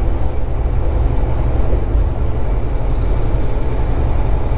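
Volvo 780 semi truck cruising on the highway: a steady, heavy low rumble of engine and road noise with a lighter hiss over it.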